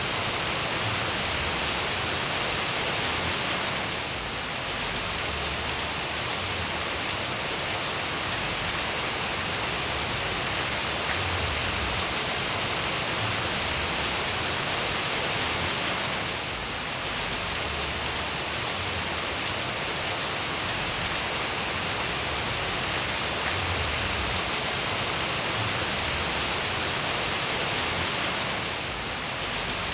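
Steady rain falling, a dense even hiss of drops with most of its energy in the high range. The level dips briefly every twelve seconds or so.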